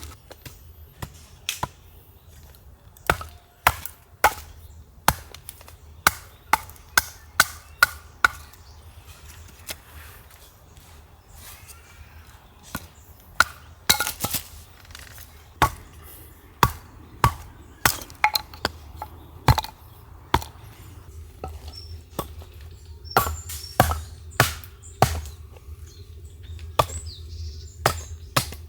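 Firewood being chopped for a campfire: a series of sharp knocks in runs of several strokes, with short pauses between runs.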